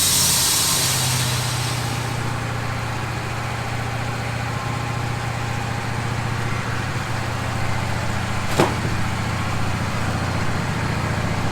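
Wood-Mizer LT15 band sawmill: the sawing noise of the blade dies away over the first two seconds, leaving its engine running steadily at idle. One sharp click comes about eight and a half seconds in.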